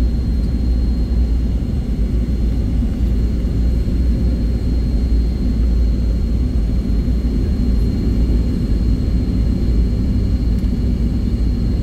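Steady low drone of a jet airliner's engines and rushing air heard inside the passenger cabin, with a thin high whine held over it.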